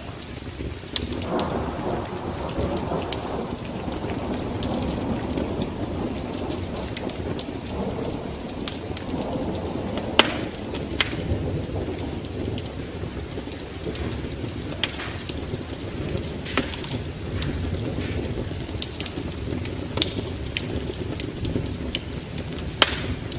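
Wood fire in a fireplace crackling, with irregular sharp pops over a steady low rumble that swells about a second in.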